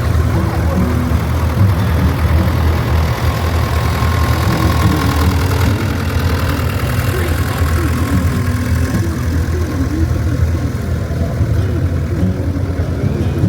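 Tractor engine running steadily at a low, even note, with no revving.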